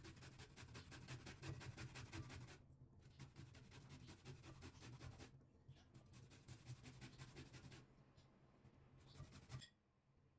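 Rapid, rhythmic scraping strokes in three runs of about two to three seconds each, with short pauses between them, over a faint low hum.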